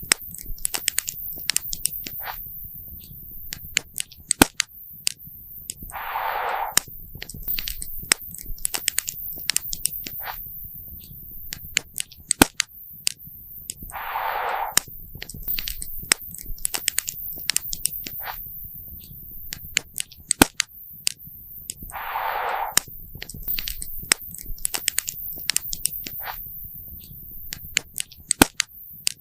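Wood campfire crackling, with frequent sharp pops and snaps over a low rumble of burning. A short hiss sounds about every eight seconds.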